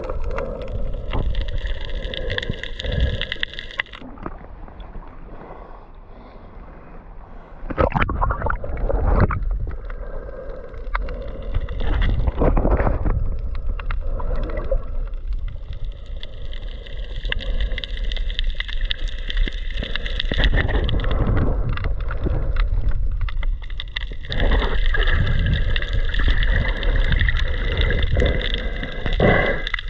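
Motorboat running over water: a steady engine drone with rumbling wind and water noise and intermittent splashing.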